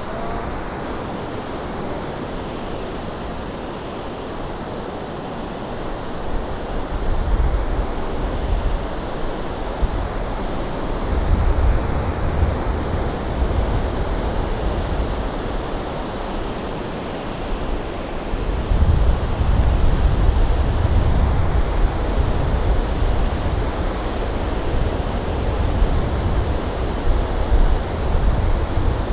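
Ocean surf washing steadily onto the beach, with wind buffeting the microphone in low rumbling gusts that come and go, heaviest in the second half.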